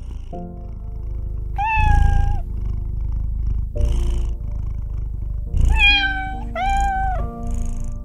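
Domestic cat meowing: one long meow about two seconds in, then two more close together near the end.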